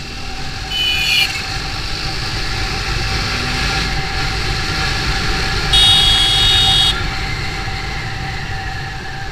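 Wind and road noise from a moving motorcycle in traffic, with a vehicle horn honking briefly about a second in and again, louder and for about a second, near six seconds in.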